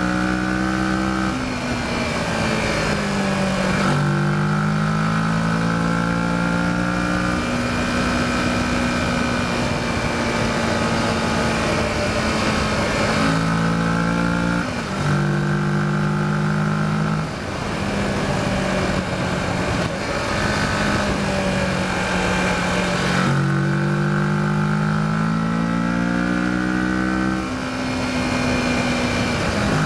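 Kawasaki Versys motorcycle engine under way, its pitch climbing and then dropping back again and again as the rider works the throttle and gears through a run of corners, with a steady rush of wind noise.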